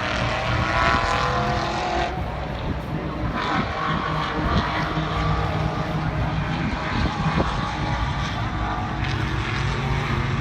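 Race car engines running hard on the circuit, several engine notes overlapping and shifting in pitch as cars go by.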